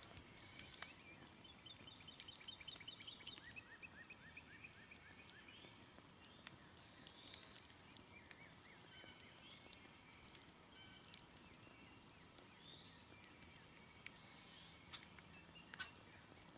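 Faint scattered crackles and pops from a smoldering campfire, with birds singing in the background. A rapid trill of repeated notes runs from about one to five seconds in, followed by scattered chirps.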